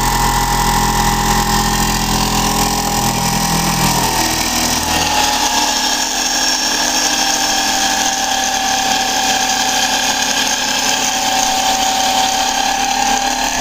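Electric motor-generator set running with a steady whine. About four seconds in the low hum drops away and the whine carries on a little lower in pitch.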